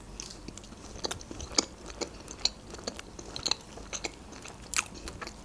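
Close-miked chewing of a mouthful of canapé: irregular soft snaps, wet clicks and smacks of the mouth, a few louder ones about one and a half seconds in and near the end.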